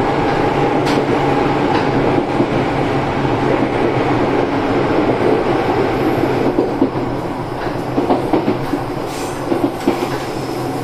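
Izukyu 2100 series electric train running, heard at the gangway between cars: a steady rumble of wheels on rail with a steady hum, and rail-joint clacks, easing off slightly after about six seconds.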